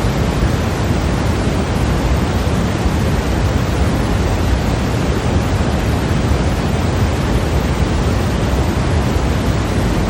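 Steady, unchanging synthetic white noise: an even hiss with no events, heavier in the low end than the high, closer to pink noise.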